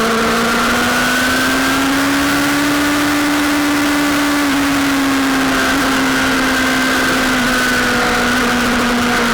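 Sportbike engine running hard at high revs, its pitch climbing slowly for a few seconds and then easing gradually, under heavy wind rush.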